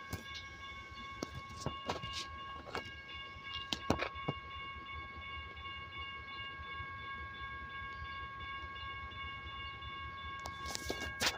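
Slow-moving CN train rolling past, with a low rumble, irregular clicks and knocks from the wheels, and a steady high-pitched whine.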